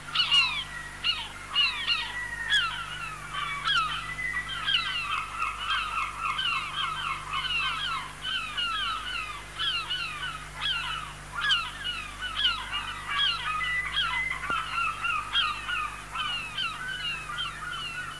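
A flock of birds calling together: a dense, unbroken stream of short calls that slide down in pitch, several a second and overlapping one another.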